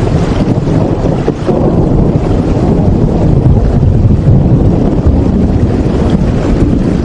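Steady heavy rain, a dense, constant rushing noise weighted toward the low end with little hiss.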